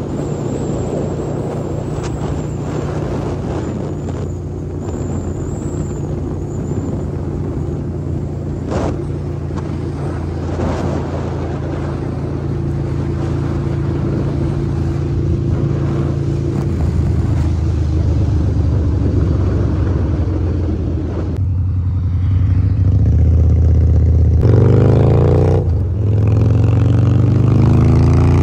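Harley-Davidson V-Rod's 1250cc V-twin engine running at a steady cruise while riding. In the last few seconds it accelerates, the pitch rising, dipping briefly for a gear change and then climbing again.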